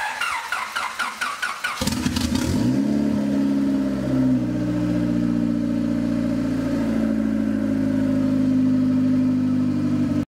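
Turbocharged Honda Civic four-cylinder being jump-started: the starter cranks in quick even pulses for about two seconds, then the engine catches, revs up briefly and settles to a steady idle.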